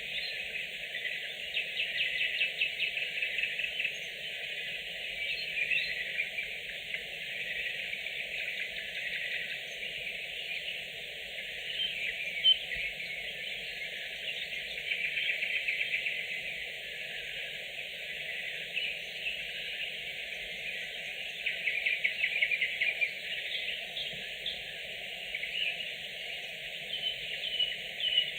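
Nightingales singing: a continuous run of phrases made of rapid repeated notes and clear whistles, over a faint steady background.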